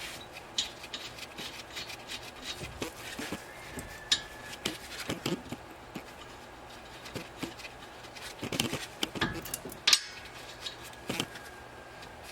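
Light, scattered metallic clicks, clinks and rubbing as brake caliper bolts and caliper parts are handled and fitted by hand, with a few louder knocks about two thirds of the way through.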